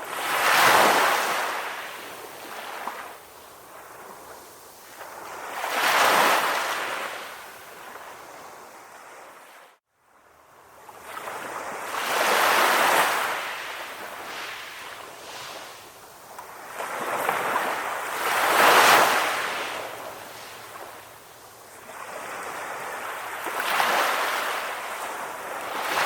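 Sea waves breaking on a shore: a surge of surf about every six seconds, each swelling up and washing back down. The sound cuts out abruptly for a moment about ten seconds in.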